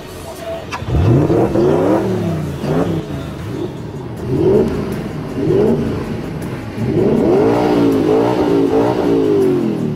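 Spyker C8 Spyder's Audi V8 starting about a second in, then revved in several short blips and held at higher revs near the end.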